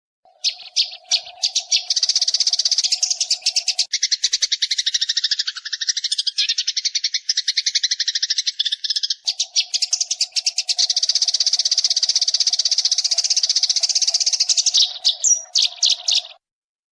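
Sparrow decoy call recording: dense, rapid chirping of sparrows. A low steady hum runs underneath for the first few seconds and again from about nine seconds on, and everything cuts off suddenly near the end.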